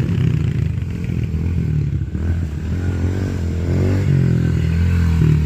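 Small pit bike engines running and revving, their pitch rising and falling as the riders speed up and slow down.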